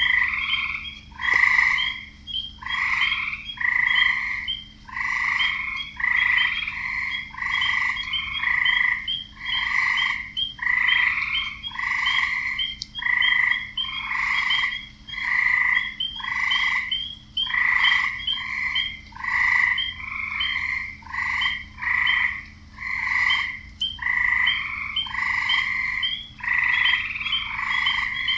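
Frogs croaking in a chorus: a steady run of calls about once a second, with short higher chirps laid over them.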